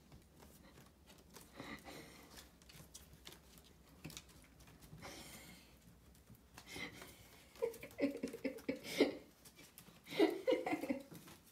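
Yorkie puppies tugging and chewing on cloth pajama pants: soft fabric rustling and paw scuffling, with short puppy growls in bursts about two-thirds of the way through and again near the end.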